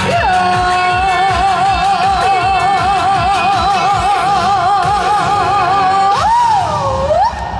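A female singer holds one long note with steady vibrato over a backing track with a beat. About six seconds in she ends it with a sweeping slide down and back up. The music stops just after.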